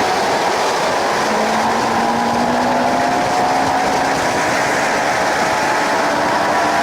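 Suzuki GSX-R 750 K7's inline-four engine running hard on track, its pitch dipping briefly at the start and then climbing slowly, with a steady rush of wind over the bike-mounted camera.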